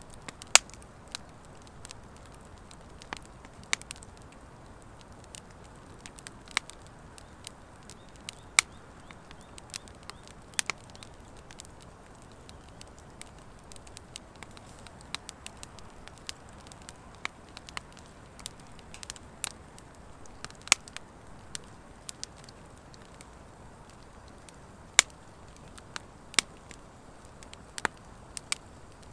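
Wood fire burning in a metal fire pit, a mix of driftwood and dry hardwood logs, with a steady low hiss and irregular sharp crackles and pops, a few much louder snaps.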